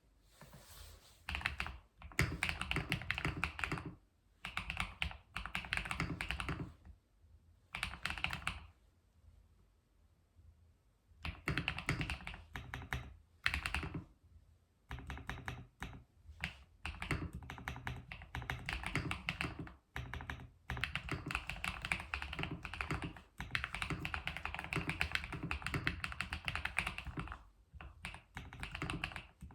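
Typing on a computer keyboard, a clacky run of keystrokes that stops and restarts in bursts with short pauses between them.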